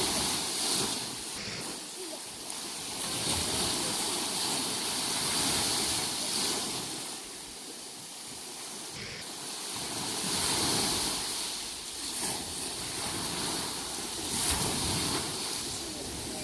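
Sea waves breaking and washing in, the surf rising and falling away every few seconds, with some wind.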